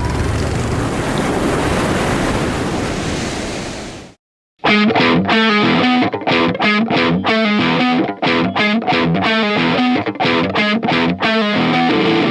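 Surf washing for about four seconds, then fading out. After a brief silence, rock music with distorted electric guitar starts in a choppy, stop-start rhythm.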